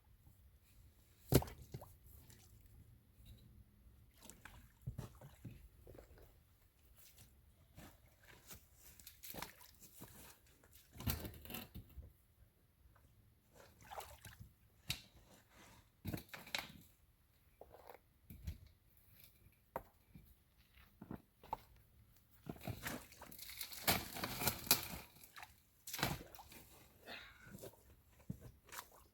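Stones being set and packed by hand into cracks: irregular clacks and knocks of rock on rock, with a longer run of rattling and crunching about three-quarters of the way through.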